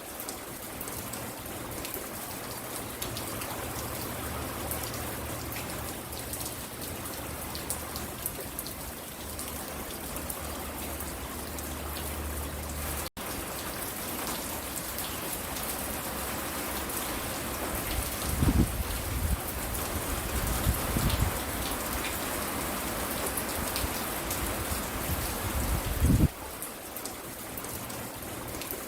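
Steady rain falling and pattering on the porch and yard, an even hiss with no letup. The sound cuts out for an instant about halfway through, and a few short low thumps stand out in the second half.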